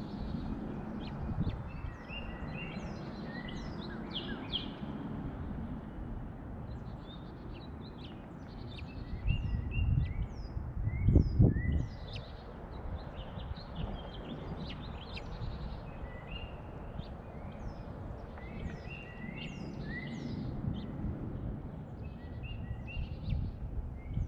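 Small songbirds chirping and calling, with many short high notes and quick down-slurred calls throughout. A low rumbling noise runs underneath and swells briefly about ten to twelve seconds in.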